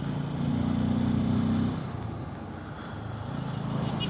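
Bajaj Pulsar N250's single-cylinder engine running under way with road and wind noise. The engine note picks up about half a second in, eases off around two seconds, then builds again near the end.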